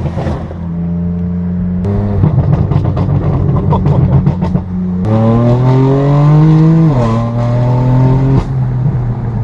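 Straight-piped BMW M4 F82's twin-turbo inline-six through an AWE Track exhaust: loud, rough, crackly running, then the revs climb for about two seconds and drop sharply at an upshift.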